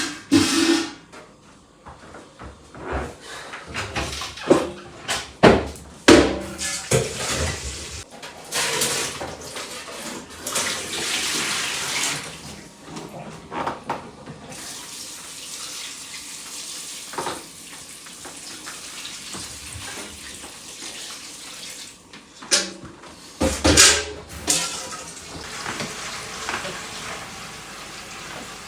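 Water running and splashing, with scattered knocks and clatter near the start and again near the end.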